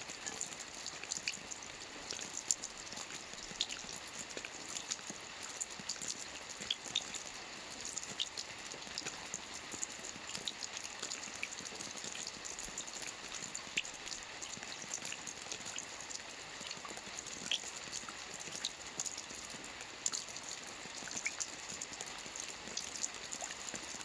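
Soft rain falling on a roof: a steady patter with scattered sharper drop ticks.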